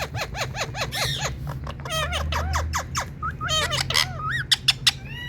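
Rose-ringed parakeets (Indian ringnecks) calling: a rapid series of short chirps that rise and fall in pitch, several a second, with a few sharper, shrill shrieks near the end.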